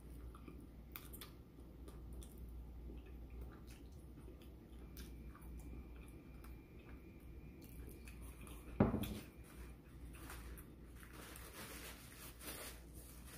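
A person chewing a mouthful of bacon cheeseburger, with many small wet mouth clicks. There is a single thump about nine seconds in, and a paper napkin rustles against the mouth near the end.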